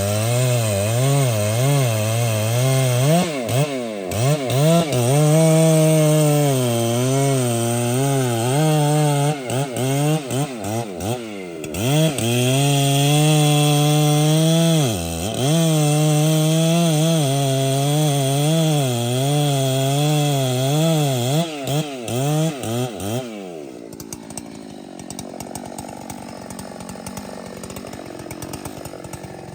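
Large two-stroke chainsaw running hard in wood, its engine speed rising and falling under load and dipping sharply a few times. It stops about 23 seconds in, leaving a much quieter steady background noise.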